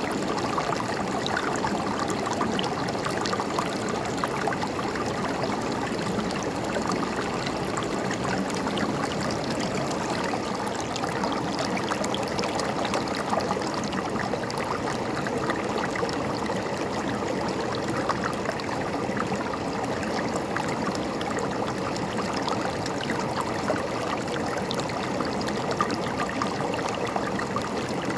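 River water flowing steadily over rocks, a continuous babbling rush dotted with many small splashes.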